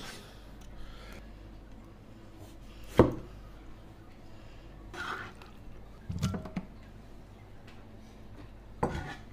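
Cleaver slicing melon-snail meat on a plastic cutting board: a few separate sharp knocks of the blade against the board, the loudest about three seconds in, with smaller clatters later.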